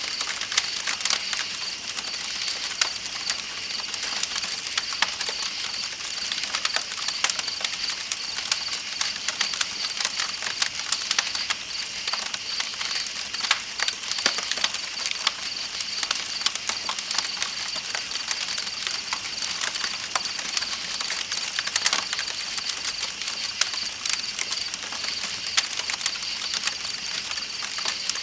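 Campfire crackling with frequent small sharp pops, over a steady hiss of flowing river water, with night insects trilling on a constant high pitch.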